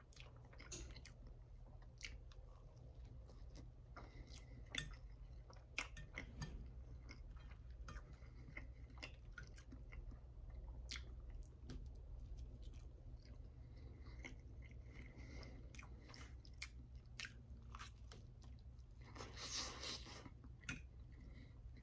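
Close-miked mouth sounds of a person chewing soft food (waffle, eggs and hash browns), with scattered small wet clicks over a faint low hum. The chewing grows louder for a moment near the end as he takes a big bite.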